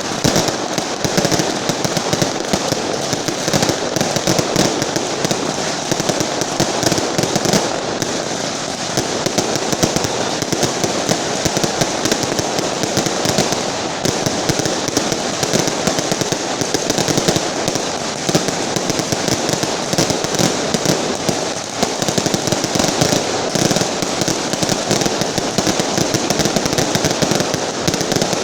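A firecracker carpet of linked firecrackers going off in a continuous, dense crackle of rapid bangs that does not let up.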